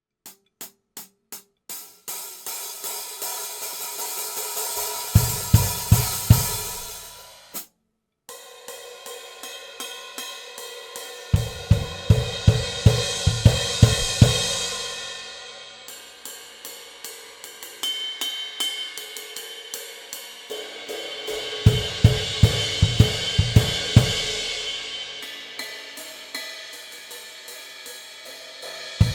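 Bosphorus Traditional series cymbals played on a drum kit: a few single strikes, then steady hi-hat and ride patterns. Three louder passages of crash hits over kick drum and snare come about five seconds in, in the middle and near the end, with a brief stop around eight seconds.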